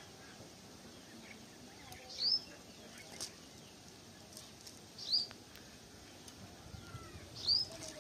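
A bird repeating a short, high, rising call three times, about every two and a half to three seconds, over faint steady outdoor background noise.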